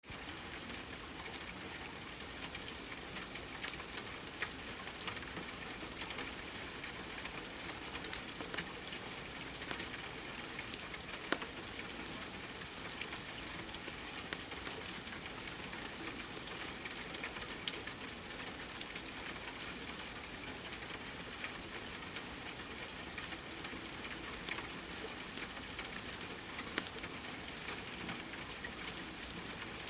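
Steady rain hiss mixed with a wood fire crackling in a fireplace, with irregular sharp pops.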